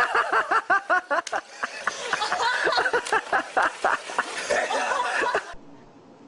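A person laughing hard in rapid, repeated bursts, which cut off suddenly about five and a half seconds in.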